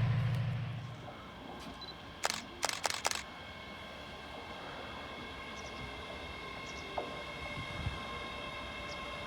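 A train's low rumble fades away in the first second, followed by a handful of sharp clicks about two to three seconds in, then a faint steady whine of several high tones.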